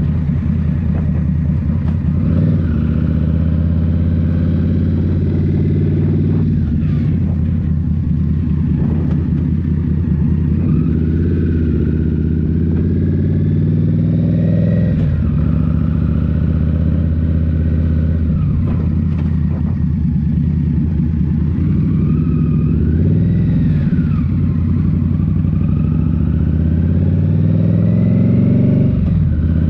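Indian Scout Rogue's 69 cubic-inch V-twin running through a Rinehart slip-on exhaust while riding, its engine note falling and rising several times as the throttle is worked.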